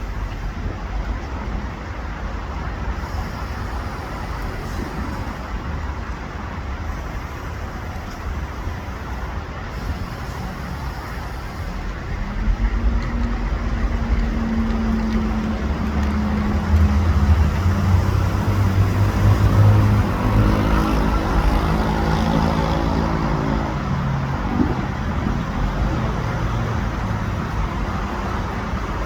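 Steady road-traffic rumble. About twelve seconds in, a vehicle engine's hum grows louder, holds, steps in pitch and fades by about twenty-five seconds, as a vehicle passes.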